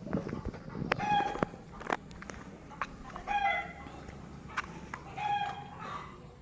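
A chicken calling three times, short pitched calls about two seconds apart, with a few sharp knocks in between.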